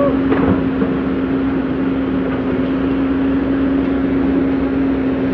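Komatsu PC200CE excavator's diesel engine running steadily under load while digging soil, with one constant tone held throughout.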